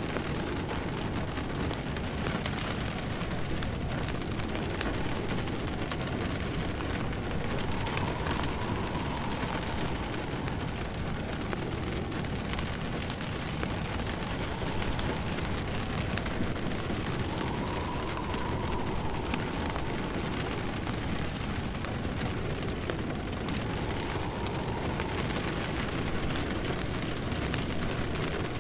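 Steady rain mixed with a wood fire crackling, a layered rain-and-fireplace ambience. A faint soft tone swells and fades three times.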